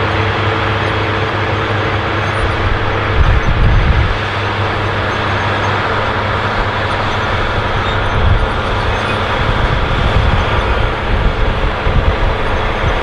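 Allis-Chalmers 7080 tractor's turbocharged six-cylinder diesel running steadily under heavy load while pulling a chisel plow through the soil. Low rumbling surges come about three seconds in and again through the second half.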